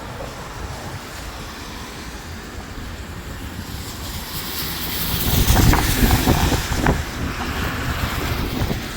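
Snowstorm wind blowing and buffeting the microphone, a steady rush with low rumble that builds into a strong gust about halfway through.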